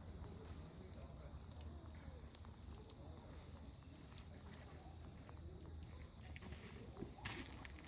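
Wood campfire crackling faintly with scattered small pops, a little denser near the end, over insects chirping steadily in short repeated trills.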